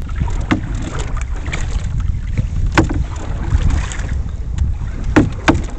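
Wind buffeting the microphone out on open water in a canoe, a steady low rumble, with about four short sharp knocks spread through it.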